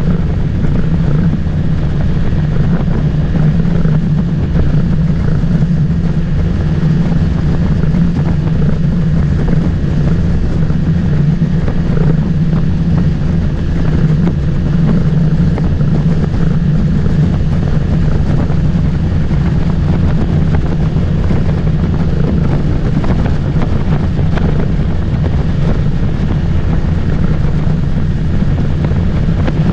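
Motorboat engine running steadily underway, a constant drone with water and wind noise.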